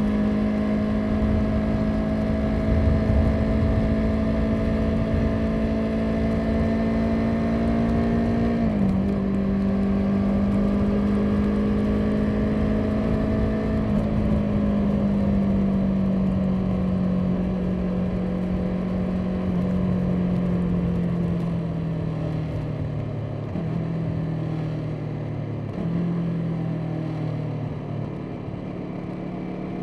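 Motorcycle engine running under way. Its note climbs slowly, dips briefly twice in the first half, then falls steadily through the second half with two more short dips. Wind rumble on the microphone eases as the engine slows.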